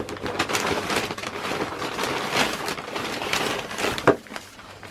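Packaging being opened and handled by hand: steady crinkling, rustling and small clicks of wrapping, with one sharp knock about four seconds in.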